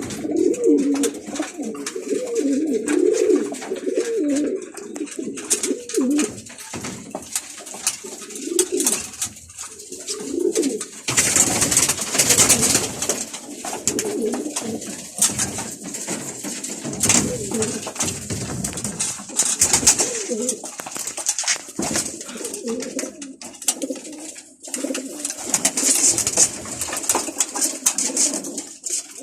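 Domestic pigeons cooing in a low, repeated warble, cooing most through the first third, with scattered bursts of rustling noise later on.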